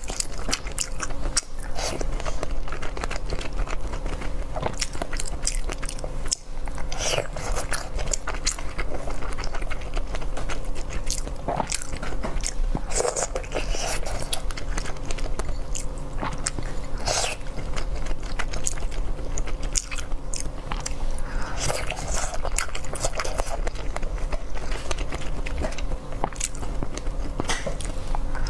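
Close-miked biting and chewing of soft wontons coated in dipping sauce, with many small mouth clicks and smacks throughout.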